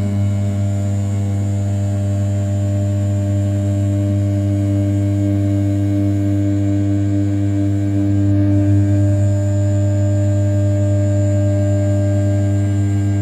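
RZ420 desktop CNC mill with a 500 W brushless spindle at 6000 rpm rough-milling the outer profile of A7075 aluminium: a steady, even hum with a thin high whine above it, growing slightly louder about two-thirds of the way through.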